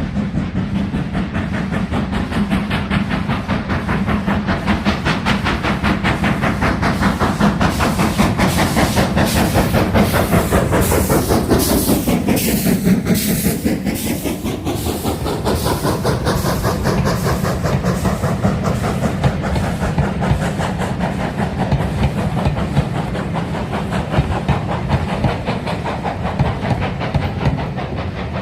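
A train passing close by: a rapid, even clatter of wheels on the rails with a steady hiss. It is nearest and loudest about halfway through.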